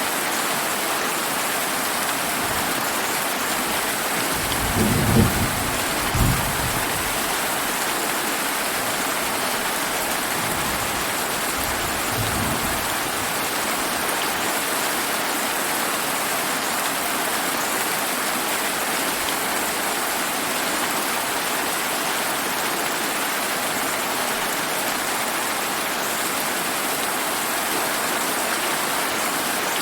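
Steady rain falling, an even hiss throughout, with distant thunder rumbling low about five seconds in, again a second later, and faintly about twelve seconds in.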